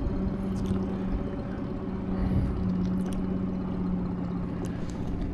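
Small boat's motor running steadily at trolling speed, a constant hum over a low rumble.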